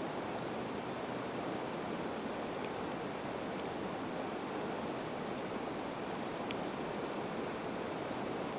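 Steady rushing of a river, with a cricket chirping regularly about twice a second and a thin steady insect trill above it. Two faint pops come from the burning split evergreen wood, the clearer one near the end.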